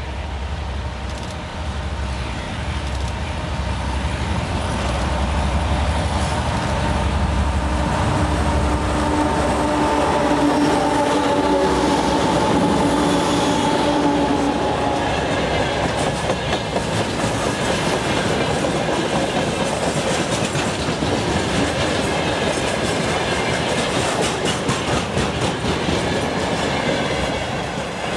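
Three-section diesel freight locomotive rumbling as it approaches, with a steady whining tone as it passes close, then a long train of freight wagons rolling by with a fast, rhythmic clickety-clack of wheels over the rail joints.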